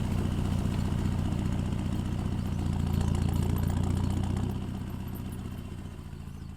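Land Rover Defender 90's 2.4 TDCi four-cylinder turbodiesel running through a straight-through exhaust, heard right by the exhaust outlet. Steady and loud, swelling briefly about three seconds in, then dropping away after about four and a half seconds and getting quieter.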